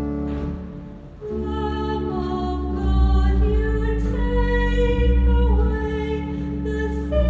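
Church music: singing over long held chords, with a brief dip about a second in before the next phrase begins.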